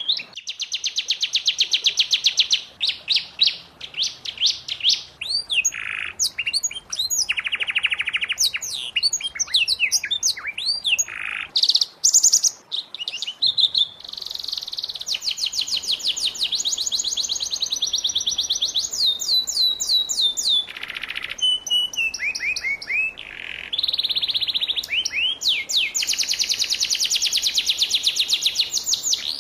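Canary singing a long, continuous song of fast trills and rolls, high-pitched, switching from one rapid rattling phrase to the next every few seconds.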